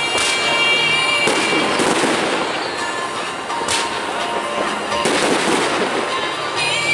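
Fireworks display: a dense crackle of bursting shells and firecrackers with several sharper bangs, and a high whistling tone over the first two seconds and again near the end.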